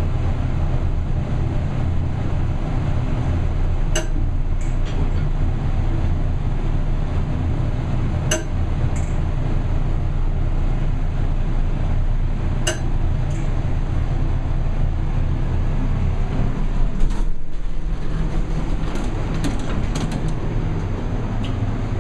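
Gemco elevator car travelling upward with a steady low running hum. A single sharp click comes about every four seconds, the distinctive 'funny click' of the car's floor position indicator as floors pass. Near the end the hum dips briefly and a quick cluster of clicks follows.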